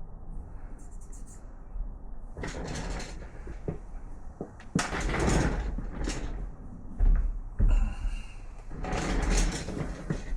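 Metal engine parts and tools being handled during a teardown: a few separate scrapes and knocks, with heavier thumps about seven to eight seconds in.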